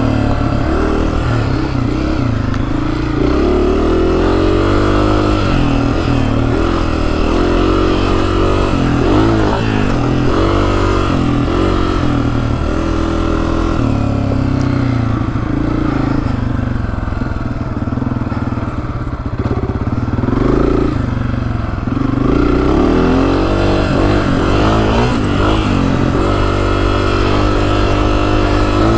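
Honda CRF250F dirt bike's single-cylinder four-stroke engine under way, its pitch rising and falling again and again as the throttle is opened and eased off, with a brief drop in revs about two-thirds of the way through.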